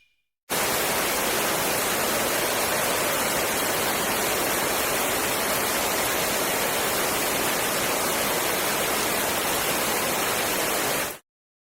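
Steady rushing of water, an even hiss at constant level that starts and stops abruptly.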